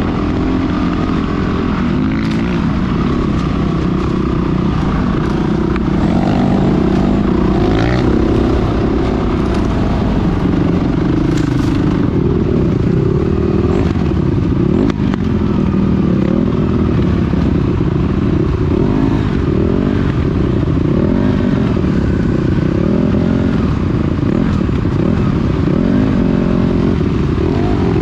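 Off-road dirt bike engine running continuously, its revs rising and falling again and again as the throttle is worked, with a few brief knocks.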